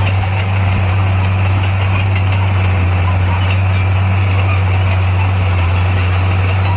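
Heavy construction machine's diesel engine running steadily, a loud, even low hum with no change in pitch.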